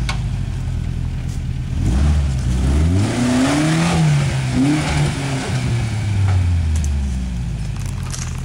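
Toyota 4x4 truck's engine revving under load on a rock climb: it rises in pitch about two seconds in, peaks around four seconds, surges briefly once more, then eases back down toward idle.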